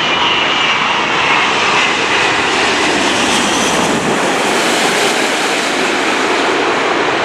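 Wide-body jet airliner's engines, a loud steady rush of jet noise, with a faint high whine that fades about a second in.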